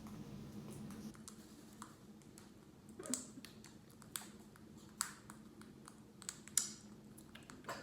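Parrots' beaks crunching and clicking on freeze-dried bird food: a few separate sharp clicks spaced about a second apart, over a faint steady hum.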